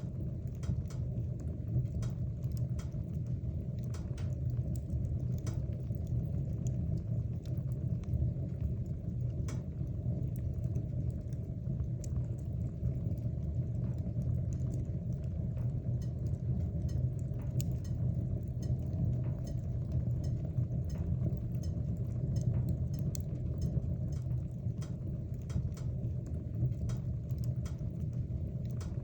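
Wood fire burning in a fireplace: a steady low rumble of the flames with scattered, irregular crackles and pops from the burning logs.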